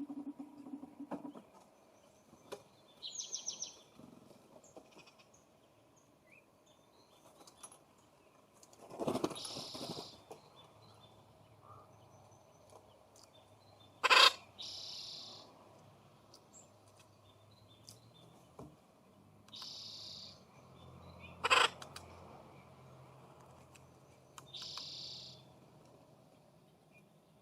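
Wild songbirds calling at a feeding station: short harsh calls every few seconds and a brief higher call early on. Two sharp knocks, the loudest sounds, come about 14 and 21 seconds in.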